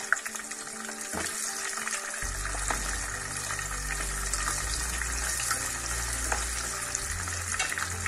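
Carrot sticks sizzling and crackling as they fry in hot cooking oil in a pan, stirred with a spatula partway through.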